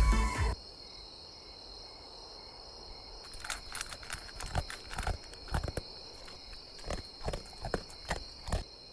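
Music cuts off about half a second in, leaving a steady high-pitched hum, like insect ambience. From about three seconds in come irregular short knocks, like footsteps.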